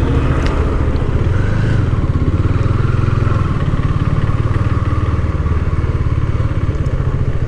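KTM Duke 250's single-cylinder engine running steadily, an even drone with no revving.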